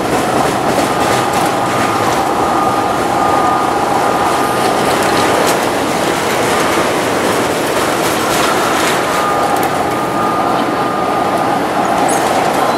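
Norfolk Southern autorack freight cars rolling past on a curve: a steady, loud rumble of steel wheels on rail with faint clicks at the joints. Over it sits a steady high-pitched squeal from the wheels in the curve, which fades and returns.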